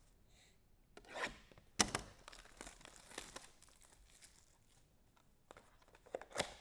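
Trading-card pack wrappers being torn open and crinkled in short scratchy bursts, the sharpest rip about two seconds in and more rustling near the end.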